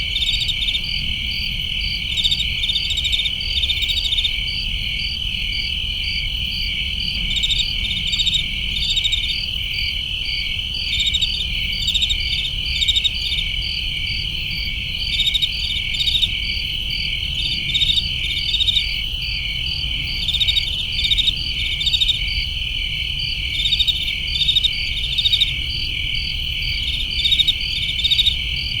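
Crickets chirping: a steady high trill with many repeated pulsed chirps layered over it, over a low steady rumble.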